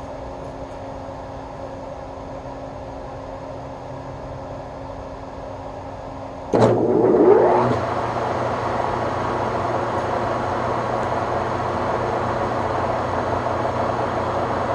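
A steady hum, then about six and a half seconds in a sudden click as the Webb Whacheon lathe's motor is switched on. The motor whines upward briefly as it spins up, then the lathe runs steadily in low back gear at the 285 RPM setting, sounding pretty good though it needs oil.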